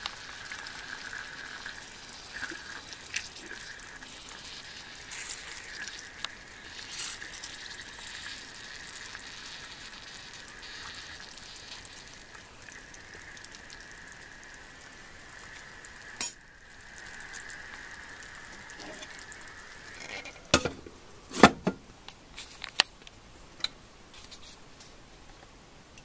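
Small peppers frying in oil in a stainless steel pan, a steady sizzling hiss. About twenty seconds in, the sizzle fades and a few sharp knocks follow.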